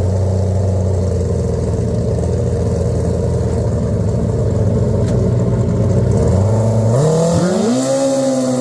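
1000cc grudge drag-racing superbike engine idling steadily, then about six seconds in its revs climb smoothly over a second or so and hold at a higher, steady speed.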